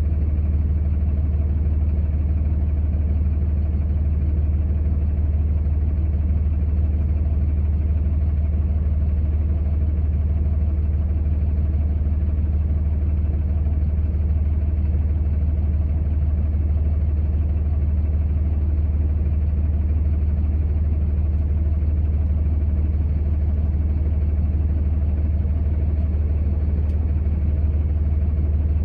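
Steady low drone of a vehicle's engine and running gear, heard from inside the cab, holding an even level throughout.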